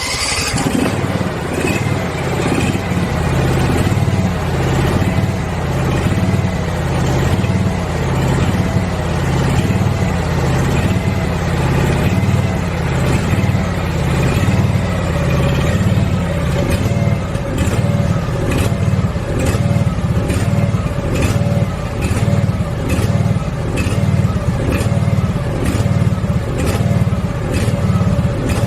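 Kyoritsu riding mower's engine, just started, idling unevenly: its speed rises and falls in a regular rhythm about once a second. This hunting idle is the idling fault the mower was brought in to have repaired.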